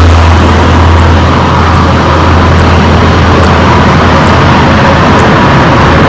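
Jet airliner engines running loud and steady, with a deep low rumble under a faint steady whine.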